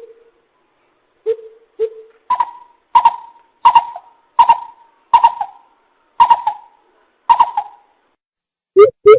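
Coucal (bìm bịp) calls recorded as a decoy lure: a few deep hoots, then a slow series of about seven higher-pitched notes roughly one every 0.7 s. Near the end a fast run of deep hoots starts up.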